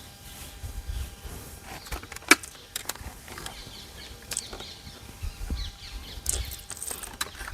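Camping gear being packed into a bag by hand: scattered clicks, knocks and rustles, with one sharp knock about two seconds in.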